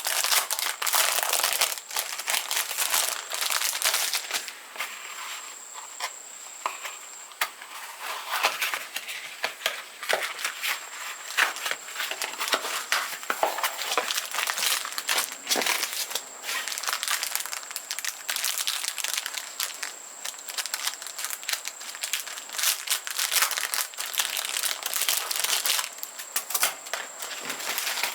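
Packaging crinkling and rustling as it is handled: a dense, irregular run of crackles with louder bursts now and then.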